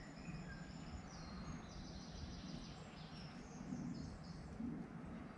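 Quiet woodland ambience: small birds singing thin, high, rapidly repeated notes over a low steady rumble.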